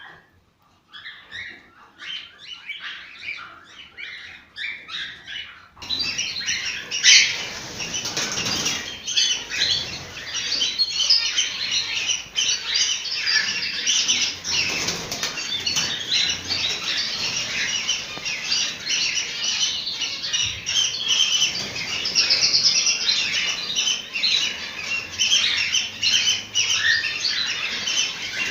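A flock of cockatiels chirping and calling continuously, with wings flapping now and then. The chirping is fainter at first and turns abruptly louder and denser about six seconds in.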